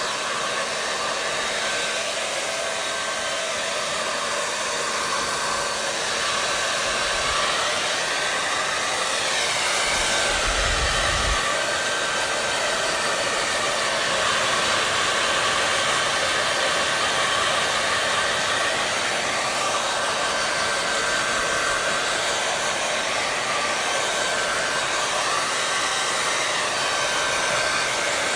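Hair dryer running steadily: a constant rushing blow with a faint steady whine, its tone shifting slowly back and forth. A brief low rumble comes about ten seconds in.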